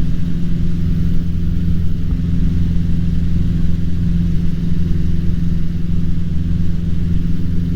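Cessna 150's four-cylinder Continental O-200 engine and propeller giving a steady low drone during the climb-out after takeoff.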